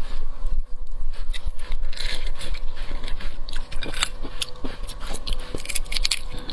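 Biting and chewing shrimp, with many short crackling clicks and scrapes.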